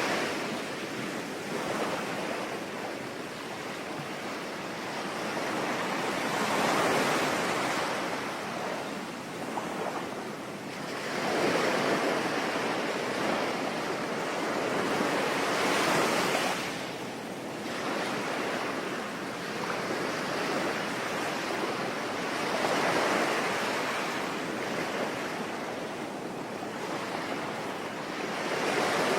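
Sea waves washing onto the shore, a continuous surf noise that swells and falls back every five or six seconds.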